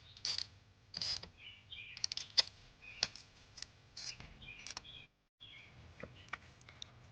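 Irregular light metallic clicks and taps from a hand tool starting and turning a bolt down in an engine bay, in short uneven groups.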